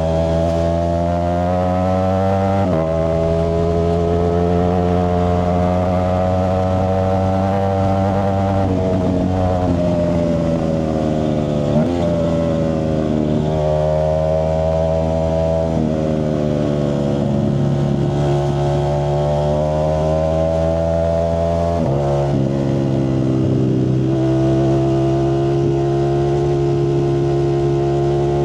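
Ducati Streetfighter V4S's 1103 cc V4 engine running through a Zard exhaust, its pitch drifting slowly up and down with several sudden steps in pitch.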